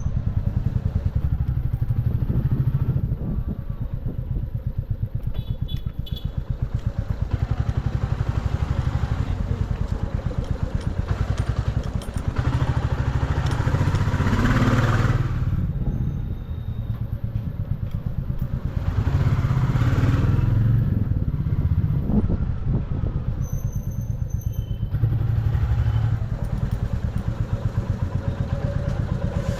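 Motorcycle engine running steadily while riding, with a dense low pulse throughout. It swells louder twice, around halfway and again about two-thirds of the way in, with a rush of wind and road noise.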